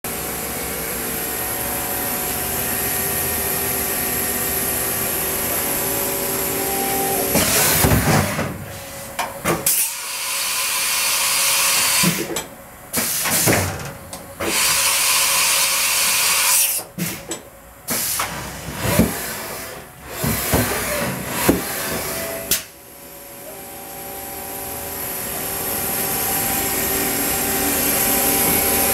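Haas EC-400 horizontal machining center running: a steady machine hum, then about fifteen seconds of short starts and stops with rising and falling whines and bursts of loud hiss. The steady hum then returns and grows slowly louder toward the end.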